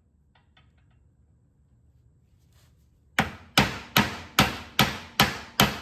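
A few faint clicks, then, about three seconds in, a steady run of about seven hammer blows, roughly two and a half a second, on an old pin used as a punch. The blows are driving the mower deck spindle shaft out of its two bearings.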